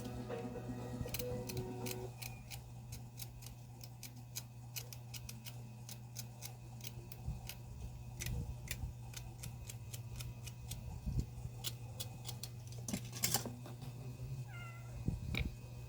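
Many light clicks and taps over a steady low hum. Near the end a cat meows, a short call that falls in pitch.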